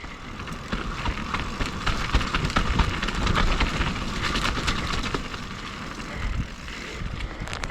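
Mountain bike rolling down a steep, rocky, bumpy descent: tyres crunching over rock and the bike rattling and clattering with many small knocks over a steady low rumble.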